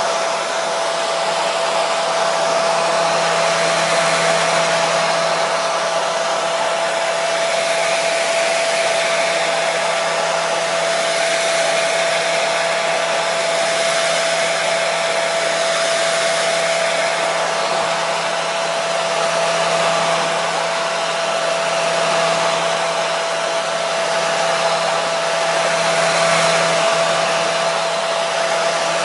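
Hair dryer running steadily: an even rush of blown air with a constant motor whine over a low hum.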